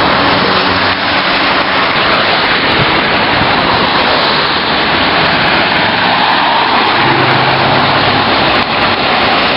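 Street traffic noise: a car's engine and tyre noise under a loud, steady hiss, with a low engine note showing more clearly near the end.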